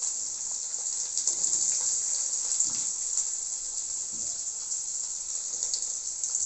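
Chopped onion, garlic and whole cumin seeds sizzling in hot mustard oil in a kadai: a steady hiss with small crackles.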